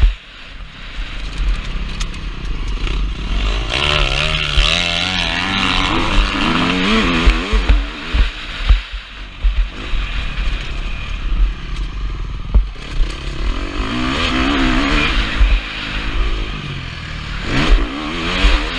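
KTM 350 SX-F motocross bike's single-cylinder four-stroke engine revving up and down as the rider works the throttle, its pitch rising and falling several times, loudest from about four seconds in. Heavy low wind rumble on the helmet camera and scattered clattering knocks run underneath.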